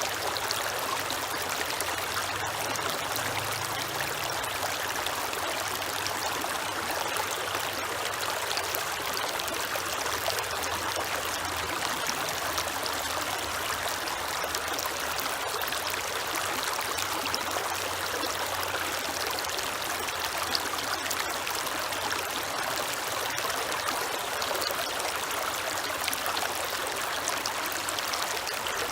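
Creek water flowing and trickling in a steady, even rush, with a faint low rumble underneath.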